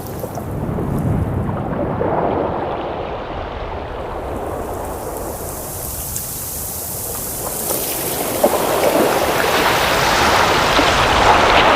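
Ocean waves washing in, an even rushing noise that swells about two seconds in, eases, then builds louder over the last few seconds as a bigger wave comes in.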